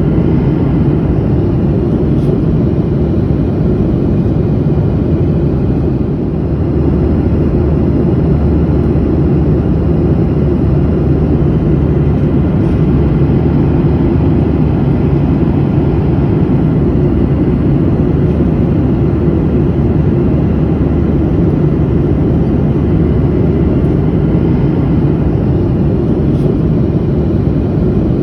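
Steady low rumble of a passenger airplane in flight, heard from inside the cabin: engine and airflow noise with a faint hum, dipping slightly in level about six seconds in.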